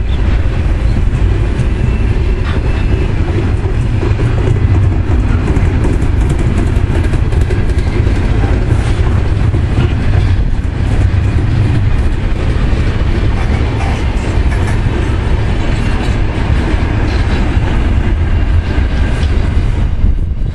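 Freight train's container wagons rolling past on the rails: a steady heavy rumble of steel wheels with frequent clicking and clattering as the wheels and bogies go by.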